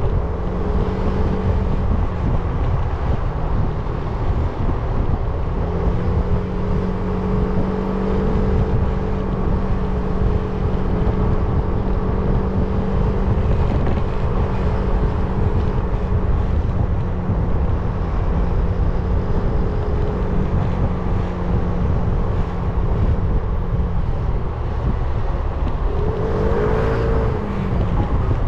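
300cc motorcycle engine running at a steady cruise while riding, with heavy wind rush on the mic. A little before the end the engine note dips and climbs again.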